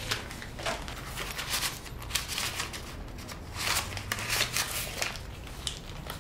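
Rummaging through a leather handbag and purse: a series of short rustles as the purse is opened and paper banknotes are pulled out.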